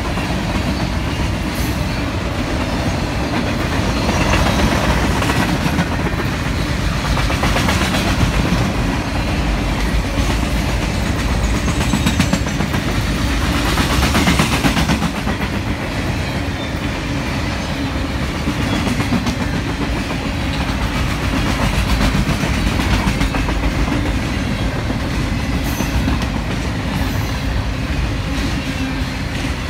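Freight train's boxcars rolling steadily past: a continuous heavy rumble with the steel wheels clicking over the rail joints, swelling a little around the middle.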